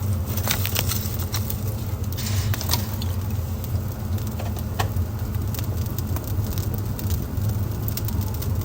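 Wood fire burning in a fireplace, crackling with irregular sharp pops over a steady low rumble, with a brief hiss about two seconds in.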